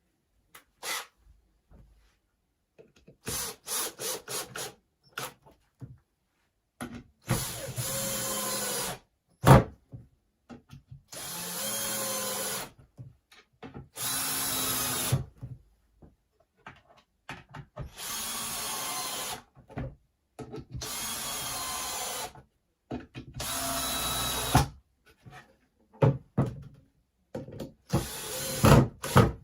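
Power drill driving short screws into the wooden corners of a beehive super. It goes in about seven short runs of a second or two each, with clicks and knocks of handling between and one sharp knock about a third of the way in.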